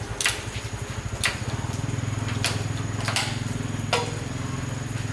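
Small motorcycle engine running with a fast, even beat, growing stronger about one and a half seconds in, with five sharp clicks spaced about a second apart.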